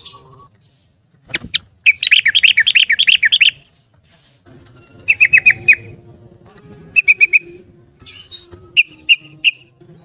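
Yellow-vented bulbul (trucukan) singing in fast rattling runs of short, sharply rising notes: one long run of about a dozen and a half notes, then three shorter bursts of four or five notes.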